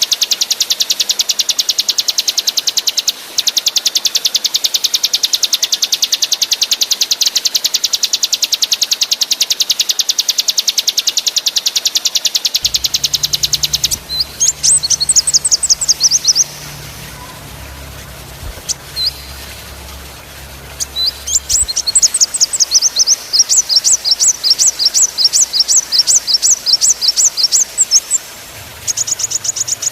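Small songbird singing high and fast: a continuous rapid trill for about the first fourteen seconds, then short bursts of quick, sharp repeated notes with pauses between them.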